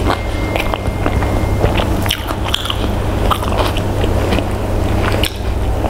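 Close-up mouth sounds of chewing a mouthful of rice, with wet clicks and smacks, while fingers mix rice on a plate. A steady low hum runs underneath.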